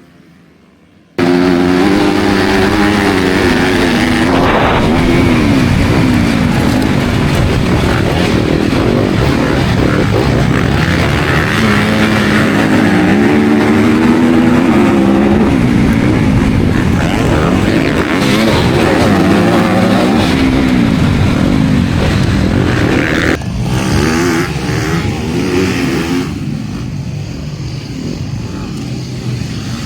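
Motocross dirt bikes racing off the start, engines revving hard, their pitch rising and falling again and again through the gears. The engine sound starts abruptly about a second in.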